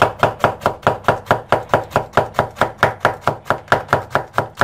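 Kitchen knife chopping vegetables on a cutting board, several laid side by side and cut together in a fast, even rhythm of about four to five cuts a second.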